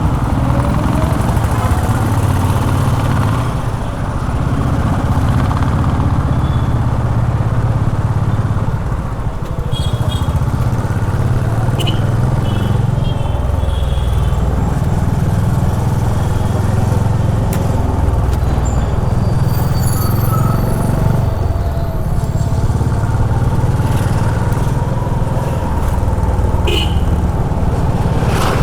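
Honda H'ness CB350's air-cooled single-cylinder engine running under way in city traffic, its note swelling and easing with the throttle, with brief drops in loudness about 4 and 9 seconds in.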